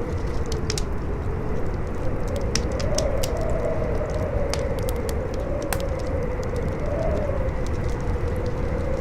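Campfire crackling, with scattered sharp pops and snaps, over strong howling wind whose whistling pitch wavers up and down, beneath a steady low rumble.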